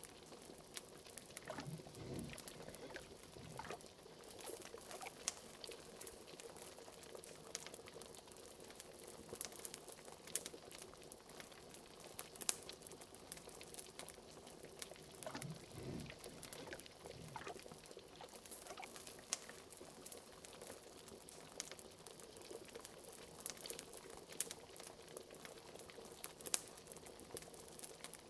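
Liquid bubbling at a steady boil, fairly quiet, with many small pops and a couple of deeper gurgles about two seconds in and again near the middle.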